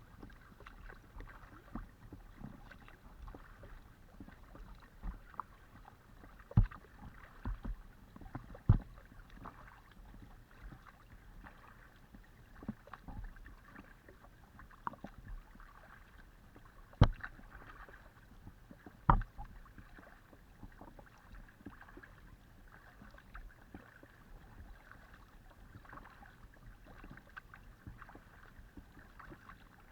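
Paddling a Decathlon Itiwit x500 kayak: steady paddle strokes and water splashing and trickling close by, with many small ticks. Four sharp knocks stand out, two about a third of the way in and two a little past the middle.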